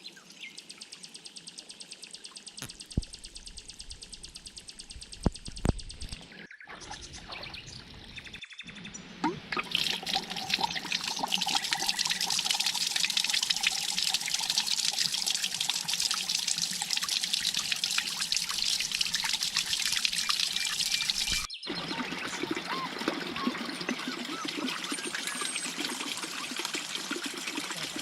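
Water pouring and trickling, across several cut-together scenes. The flow is loudest through the middle stretch. A fast, even ticking runs through the first few seconds.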